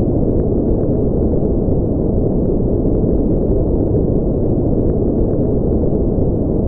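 Steady white-noise track for sleep, deep and even, with no high hiss and no change in level.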